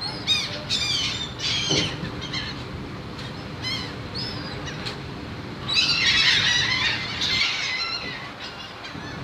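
A flock of birds calling in a string of short, harsh squawks, rising to a dense burst of many overlapping calls about six seconds in, over a faint steady low hum.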